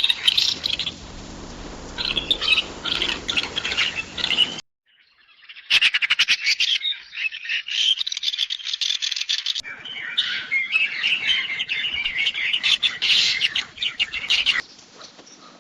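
Assorted bird calls: dense, rapid chirps and twittering from several different recordings spliced one after another. There is a short silent gap about five seconds in, and a quieter stretch near the end.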